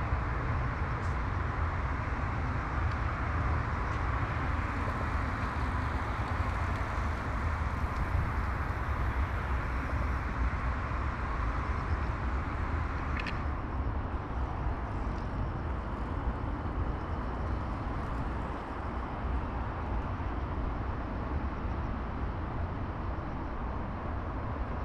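Steady outdoor city noise: a continuous low rumble and hiss of road traffic, with a single short click about thirteen seconds in.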